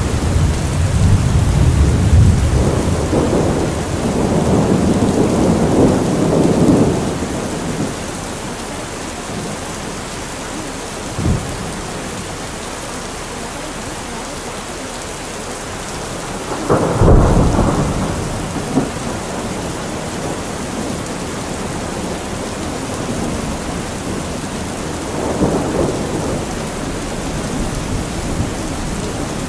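Steady rain with thunder: a long low rumble over the first several seconds, a sharper, louder clap about 17 seconds in, and a softer rumble near the end.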